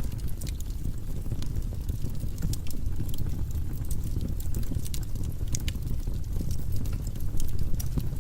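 Firewood burning in a fireplace: a steady low rumble from the flames, with irregular sharp crackles and pops from the burning wood.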